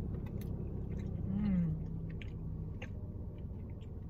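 Close-up chewing of soft, chewy rice cakes, with small wet mouth clicks, and a short hummed "mm" about a second and a half in. Under it runs a steady low hum inside the car's cabin.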